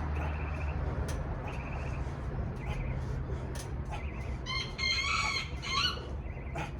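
A rooster crowing once, a call of about a second and a half that starts about four and a half seconds in, with short high chirps repeating and a steady low rumble underneath.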